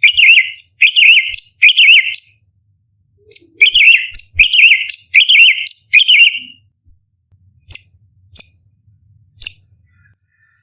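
Orange-bellied leafbird singing: two loud runs of quick repeated warbling notes, each with a high chip, followed by three short sharp calls near the end.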